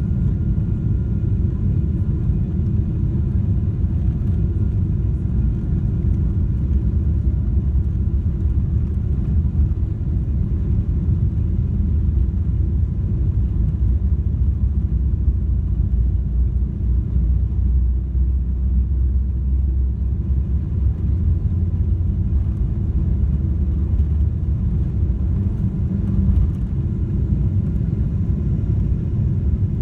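Steady low rumble of a Boeing 777-300ER heard from inside the cabin: its GE90 turbofan engines running, with airflow noise around the fuselage, faint steady whines above the rumble.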